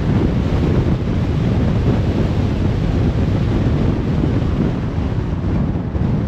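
Steady road noise of a car driving on a motorway: an even low rumble of tyres and wind with no breaks or distinct events.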